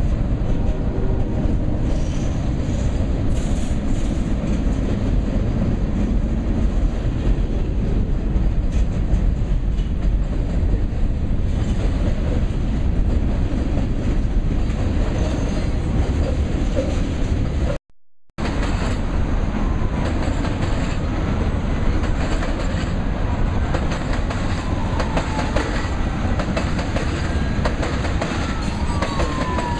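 Freight train of covered hoppers and tank cars rolling past, steel wheels clattering over the rail joints in a steady low rumble. The sound breaks off briefly about two-thirds through, and a siren wails faintly near the end.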